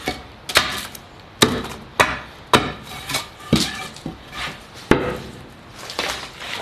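A tool striking wood in a run of sharp, irregular blows, roughly one every half second to a second, with softer scraping between; the blows grow weaker after about five seconds.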